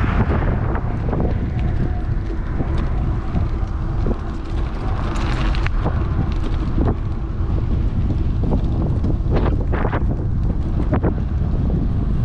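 Wind rushing over the GoPro's microphone on a moving electric bike, a constant low rumble with scattered sharp knocks and rattles.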